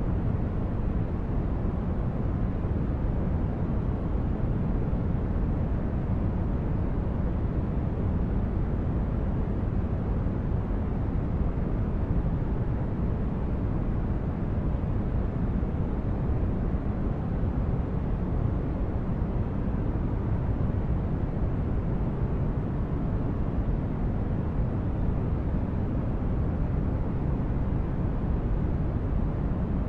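Steady sleep-aid noise: a deep, even hiss, heavier in the bass than in the treble, with no changes or events.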